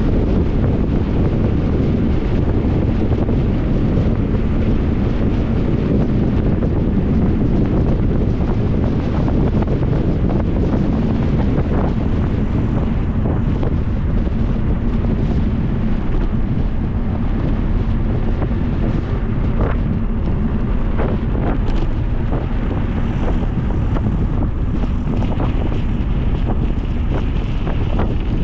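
Heavy wind buffeting the microphone while riding downhill, a loud steady rumble with scattered knocks and rattles from about twelve seconds in.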